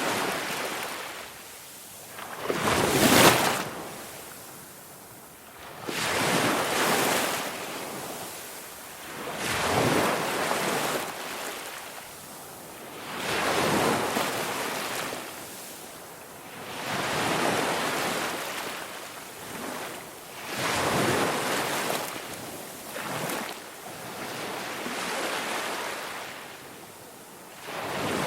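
Ocean waves breaking and washing in, a rush that swells and fades about every three to four seconds, the loudest about three seconds in.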